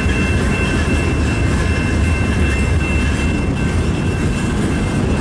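CN mixed freight train's cars, double-stacks among them, rolling past: a steady rumble of wheels on rail with a thin, steady high tone over it.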